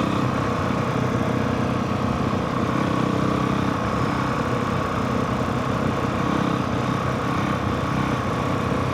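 Honda CRF450R's single-cylinder four-stroke engine running steadily at low revs, with no clear revving.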